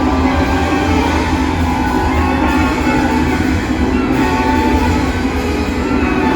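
Improvising ensemble playing a dense, loud, continuous texture of many held tones layered over a steady low drone.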